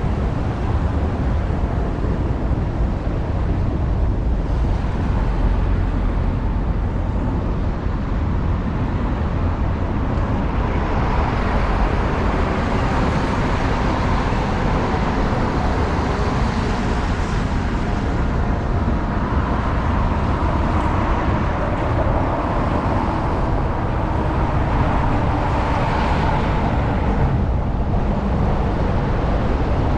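Road traffic heard from a moving bicycle, with steady wind rumble on the action camera's microphone. Passing vehicles swell up and fade away twice in the latter part.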